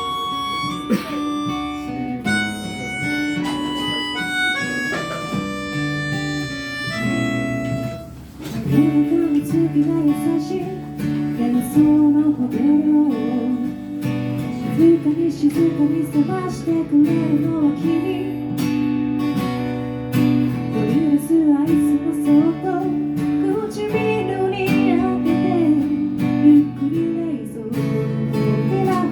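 Live acoustic-guitar-led pop music. For the first eight seconds or so a melody of held notes steps over the guitar, then after a brief dip the guitar comes in strumming harder and fuller.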